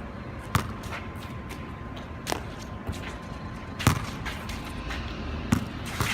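Basketball bouncing on a wet outdoor court: four sharp bounces about one and a half to two seconds apart, with a few fainter knocks, over a steady hiss.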